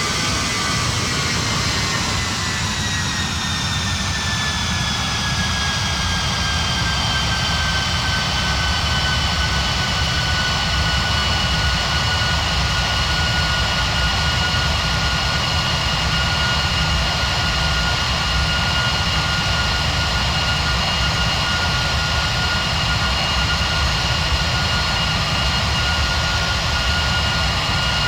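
Boeing 737 MAX 9's CFM LEAP-1B jet engines heard from inside the cabin: a steady rumble and rush of engine and air noise. A high whine falls in pitch over the first several seconds and then holds steady.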